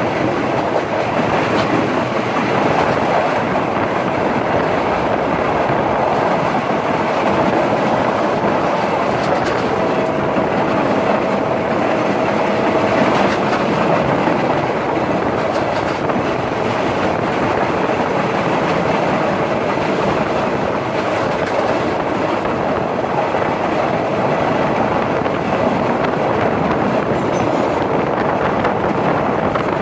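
Passenger express train running along the line, heard from aboard: a steady rumble and clatter of wheels on the rails, with a faint squeal for a few seconds about ten seconds in.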